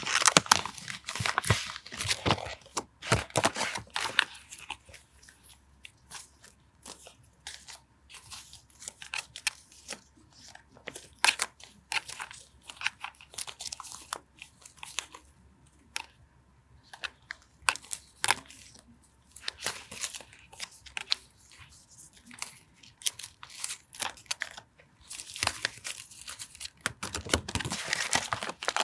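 Paper being handled, crinkled and torn for collage journaling, with scattered sharp taps and clicks. The rustling is dense for the first few seconds and again near the end, and sparser in between.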